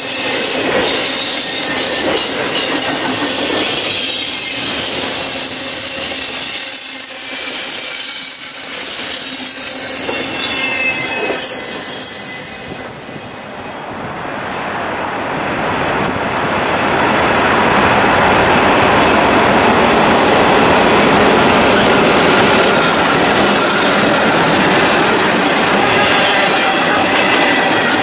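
Double-stack intermodal freight cars rolling past on jointed track, with high-pitched wheel squeal that fades out about halfway through. After that comes the steady, dense rolling noise of another intermodal train's cars passing close by.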